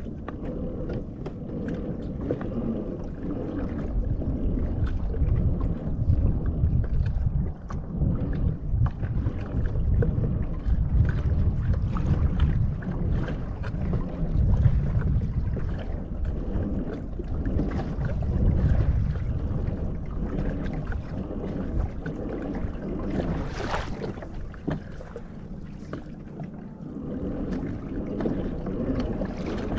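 Wind buffeting the microphone over water lapping and slapping against a kayak's hull, with a steady shifting rumble and small splashes, and one louder hit near the end.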